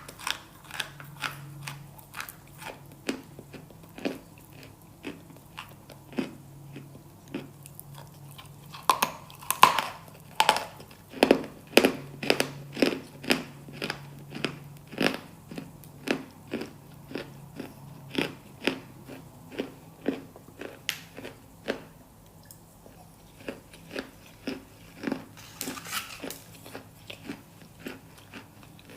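Close-miked crunchy bites and chewing, a steady run of sharp crunches about one or two a second, with a brief pause near three quarters of the way through.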